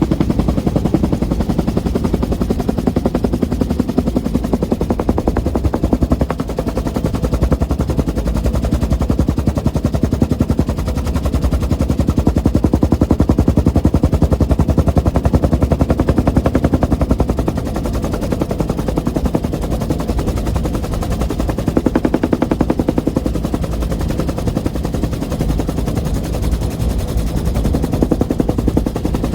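1966 Bell UH-1 Huey helicopter running, its two-blade main rotor beating a rapid, even chop over the engine's steady drone, a little louder in the middle.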